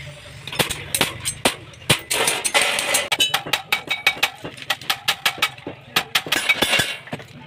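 Irregular hammer blows and clanks on steel in metalwork, a few strikes a second, with denser stretches of clatter about two seconds in and again near the end.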